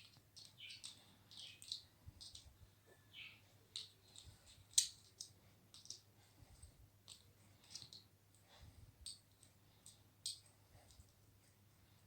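Faint, irregular light clicks and scratchy taps of a ringneck parakeet playing with its toys, its beak and the toys knocking together, with one sharper click about five seconds in.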